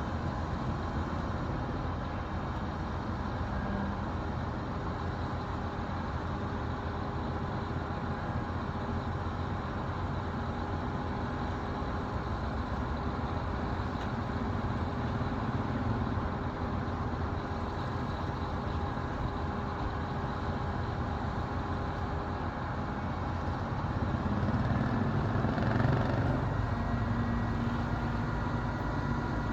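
Construction machinery engines running: a steady low rumble with a few held tones, swelling in loudness about three-quarters of the way through, after which a new lower tone sets in.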